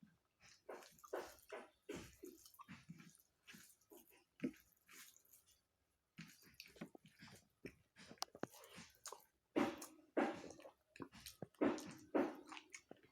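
A person chewing a mouthful of rice and curry close to the microphone, with irregular wet smacking and lip sounds.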